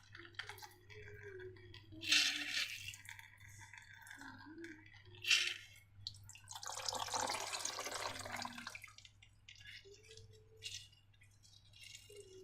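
Slime dripping and squelching, with short wet splats about two and five seconds in and a longer squish lasting about two seconds past the middle.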